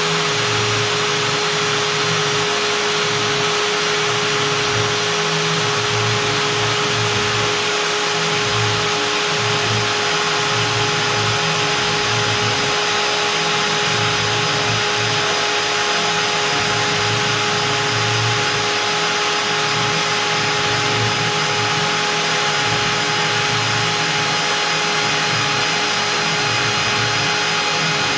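Stepcraft M1000 CNC router's spindle spinning a 4 mm up-down compression bit at 25,000 rpm while it cuts out beech: a steady whine over a rushing cutting noise, with a fluttering low rumble from the cut.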